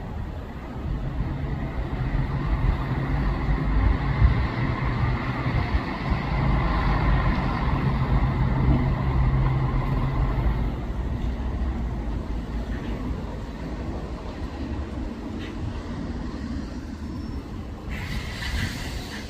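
Bus engine running with road rumble, loudest for the first ten seconds or so and then easing off as it moves away, with a brief hiss near the end.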